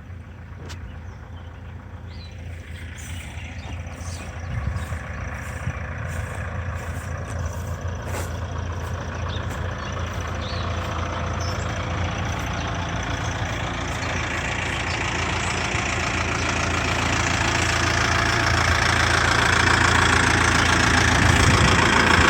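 Kioti RX7320 tractor's diesel engine idling steadily, growing gradually louder as it is approached.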